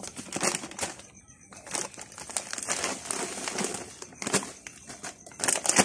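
Rustling and crinkling handling noise in irregular bursts, with sharper loud peaks about four seconds in and near the end.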